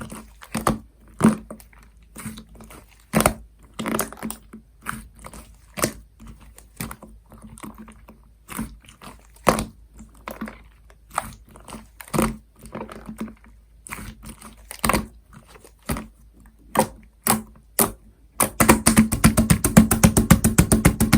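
Cream slime squished and poked by hand, making irregular sticky pops and clicks. Near the end comes a fast run of rapid clicking pops lasting about three seconds.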